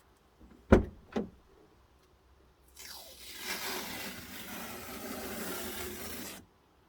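Two sharp knocks, then a bed-liner spray gun driven by compressed air hissing for about three and a half seconds before cutting off suddenly as the trigger is released.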